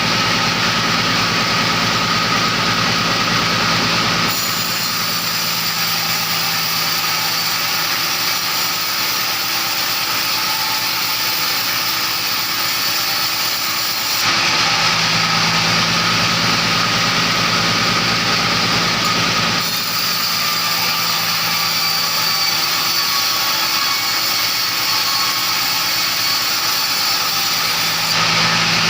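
Engine-driven sawmill machinery running steadily, with a low hum under a loud hiss; the sound switches abruptly between a lower, humming state and a hissier one several times.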